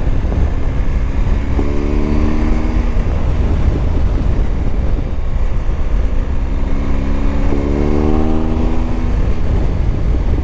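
Motorcycle engine running under way with heavy wind noise on the microphone; the engine note stands out clearly twice, for a second or two each time, over a steady low rumble.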